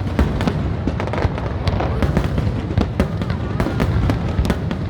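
Fireworks display going off continuously: a dense, irregular run of bangs and crackles over a steady low rumble.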